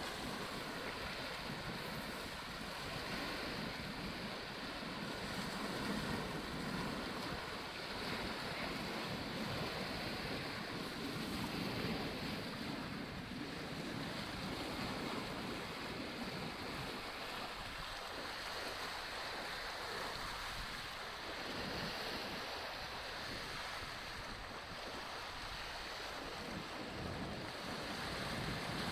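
Strong wind gusting over the microphone, with the steady rush of choppy sea water.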